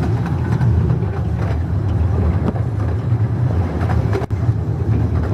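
Steady rumble of a moving narrow-gauge railway carriage on the Ravenglass and Eskdale Railway, with occasional sharp clicks from the wheels on the track.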